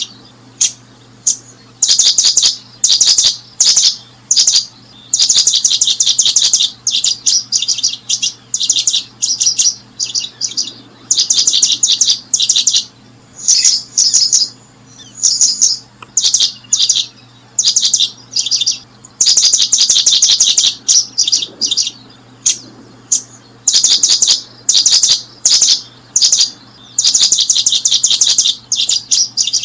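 Small bird chirping: fast trills of high notes in short bursts, one after another with brief gaps.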